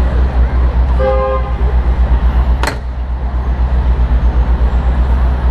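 A car horn gives one short toot about a second in, over a steady low rumble of street traffic and the ride. A single sharp click sounds a little before the middle.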